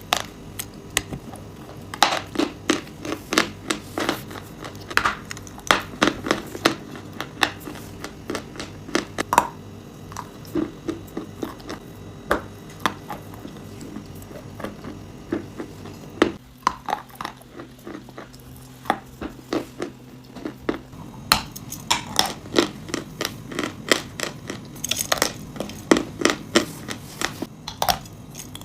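Close-miked crunching as chalk and clay are bitten and chewed: a continuous run of sharp, irregular crunches and crackles, several a second.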